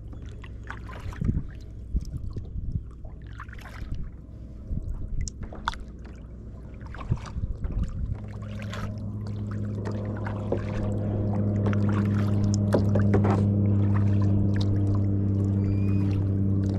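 Kayak paddle strokes: splashes, drips and light knocks of the paddle against the hull. About halfway through, a steady low engine hum swells and then holds as the loudest sound.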